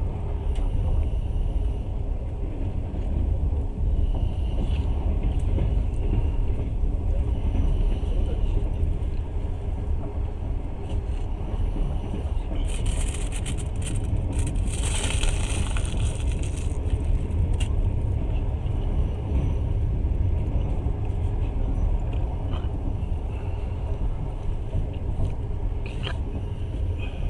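Passenger train running, with a steady low rumble of wheels on rails. About halfway through, a louder rushing hiss lasts for several seconds.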